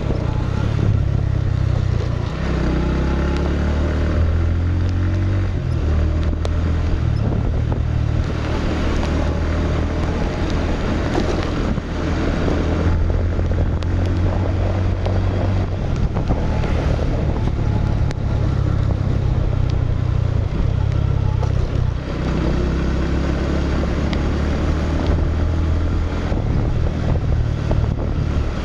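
Motorcycle engine running continuously, its note shifting up and down several times as engine speed changes.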